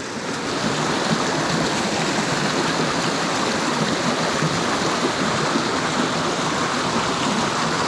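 Steady rush of water from a small mountain stream.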